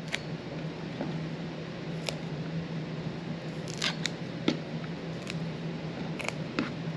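Scattered light clicks and ticks of fresh dill and kitchen utensils being handled at a counter, over a steady low hum.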